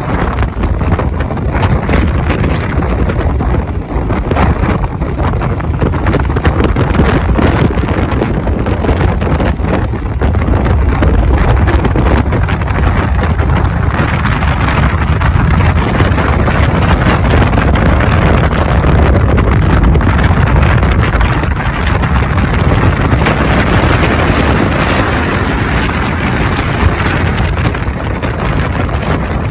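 Loud, steady wind rushing over the microphone of a moving motorcycle, with the bike's engine and road noise underneath.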